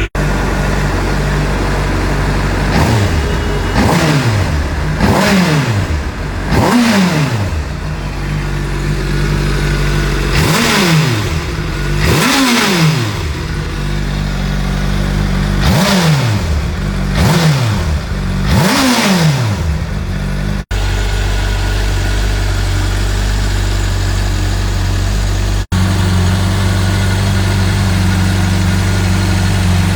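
Motorcycle engine revved in a string of quick throttle blips, each rising sharply and falling back to idle, about nine in all. Later it settles into a steady idle.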